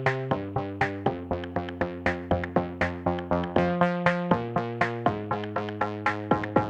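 Background music: an electronic track with a steady beat of about four to five plucked synth notes a second over held chords.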